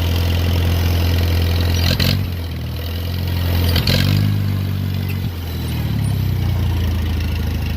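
1956 Farmall Cub's four-cylinder flathead engine running with no exhaust pipe (straight-piped), a steady low-pitched idle. Two sharp cracks come about two and four seconds in, and the engine speed sags and picks up a little around the middle before settling.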